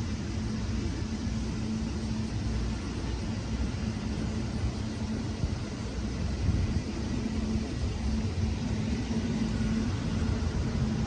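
Electric train at a station platform: a steady low rumble with a constant low hum running under it.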